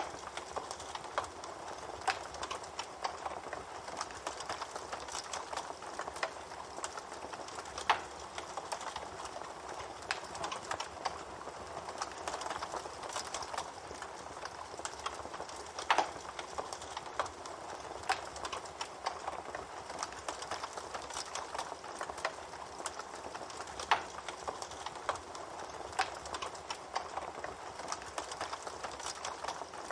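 Campfire burning with a steady hiss and dense crackling of burning wood, with a louder pop about every eight seconds.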